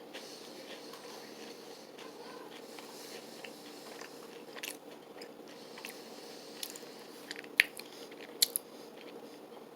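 Someone chewing a dark chocolate oat cookie, with soft crunches all through and a few sharper crunches near the end.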